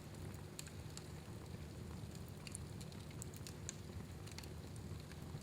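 Fire burning in a fireplace: a faint steady low rumble with scattered sharp crackles and pops.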